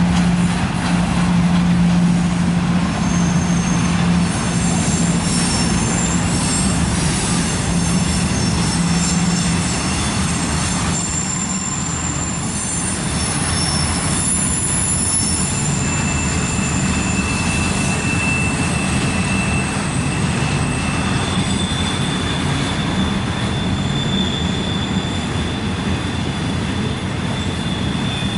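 Intermodal freight cars rolling around a tight curve, wheels rumbling with intermittent high-pitched flange squeal. A low steady hum fades after about ten seconds.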